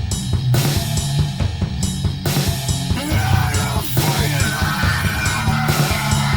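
Rock band playing an instrumental passage of a song: drum kit hits with guitar over a low bass line, no singing.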